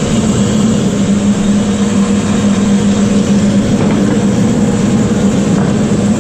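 Woodmaster planer running with a loud, steady hum.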